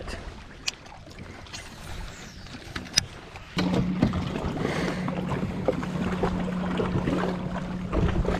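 Two sharp clicks, then about three and a half seconds in a fishing kayak's electric trolling motor switches on and runs with a steady low hum over water noise.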